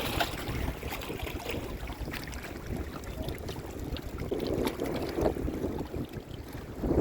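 Strong gusty wind buffeting the microphone in a windstorm, rumbling unevenly, over the wash of wind-driven waves.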